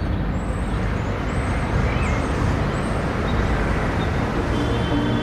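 Steady vehicle running noise: a low rumble under a broad hiss, as of an engine and road noise, holding even throughout.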